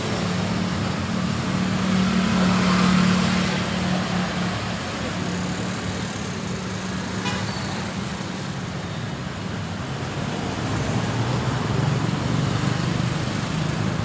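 Road traffic going past: vehicle engines running steadily with tyre noise, and one vehicle passing louder about two to three seconds in.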